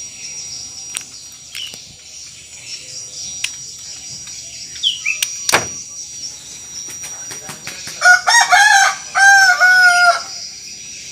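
A few short falling chirps and sharp clicks from a white-rumped shama, then a rooster crows loudly in two phrases lasting about two seconds near the end. A steady high insect drone runs underneath.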